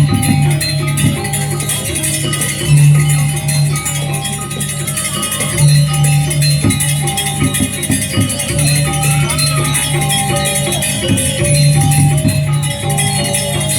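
Balinese gamelan playing: metallophone notes ringing in quick succession over a low held tone that swells every few seconds, with a continuous high, rattling shimmer of cymbals.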